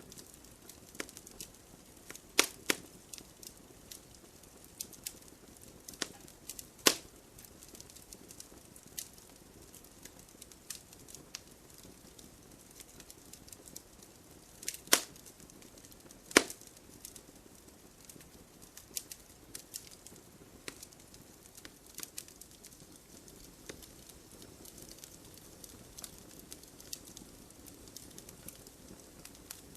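Wood fire crackling: irregular sharp pops and snaps from burning logs over a soft steady hiss of flame. A handful of pops are much louder, two of them close together about halfway through.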